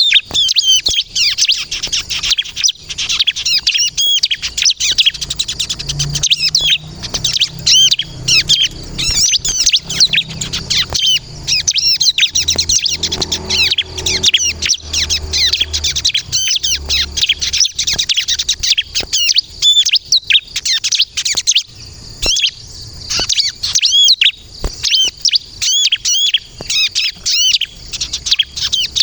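Ciblek kristal (bar-winged prinia) singing non-stop in full song, fast, high chirping phrases repeated with hardly a pause. This is the kind of recording played to lure wild ciblek and set other birds answering.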